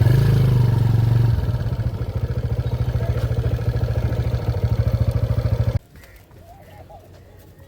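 Motorcycle engine running with a fast, even pulse, cutting off suddenly about six seconds in. After it, pigeons cooing faintly.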